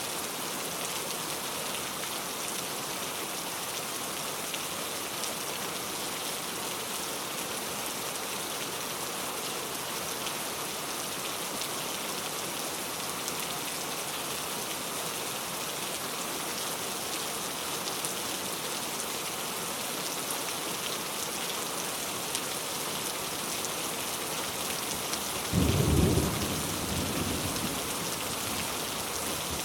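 Steady rain falling, an even hiss throughout. Near the end comes a sudden low clap of thunder, the loudest moment, which rumbles off over a couple of seconds.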